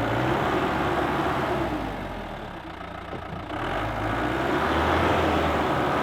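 Mahindra Bolero jeep's engine running as it drives, easing off about two seconds in and picking up again a second or so later.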